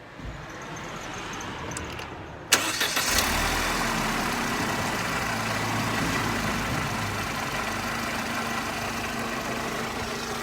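Mercedes SLK R170 engine idling, heard close up under the open bonnet. It gets suddenly much louder about two and a half seconds in, then runs steadily. To the owner's ear there is no sign of an exhaust leak at the front of the system.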